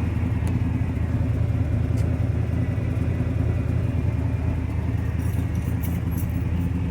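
Vehicle engine idling steadily, a low even rumble with no revving, with a few faint clicks over it.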